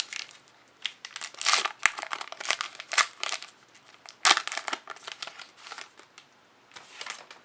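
Crinkling and rustling from things being handled, in irregular short bursts with a few light knocks; the loudest burst comes about four seconds in.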